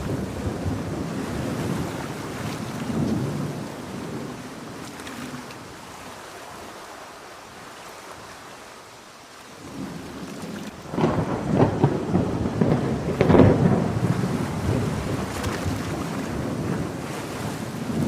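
Thunder rolling over steady heavy rain: a rumble dies away over the first few seconds, then about ten seconds in a louder, crackling roll of thunder builds, peaks and slowly fades.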